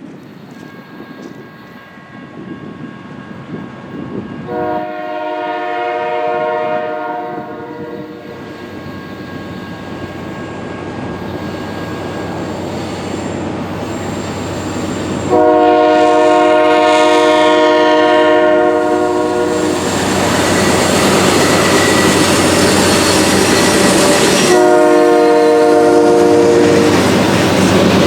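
Diesel locomotive's multi-chime air horn sounding two long blasts and a shorter third, in the long-long-short pattern of a grade-crossing signal, over the rumble of an approaching freight train that grows steadily louder, with wheel and rail noise as it draws close.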